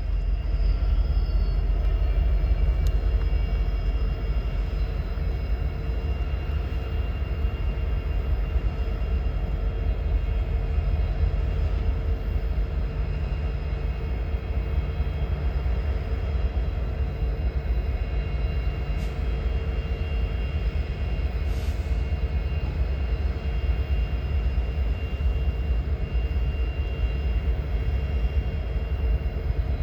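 Train running with a steady low rumble that keeps an even level throughout.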